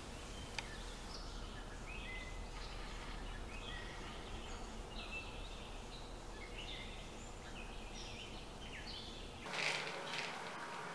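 Small birds chirping: many short, high calls in quick succession over a steady low background hum. Near the end the background changes and a brief swish is heard.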